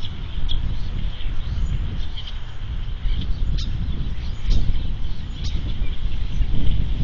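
Birds giving brief, high chirps at irregular moments over a steady low outdoor rumble.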